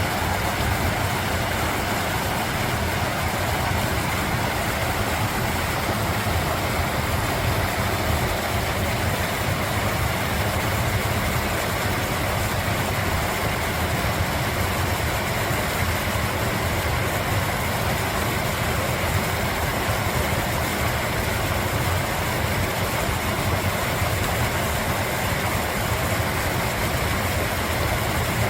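Mountain valley stream flowing, a steady unbroken rush of water.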